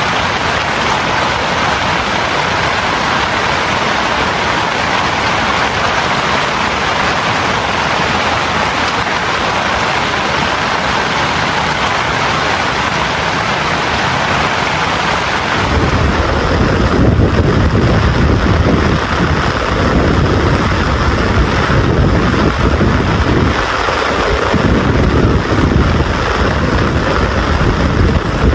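Heavy rain falling in a steady hiss. About halfway through, the sound changes suddenly to a deeper, uneven rumble under the rain, as of thunder or gusting wind.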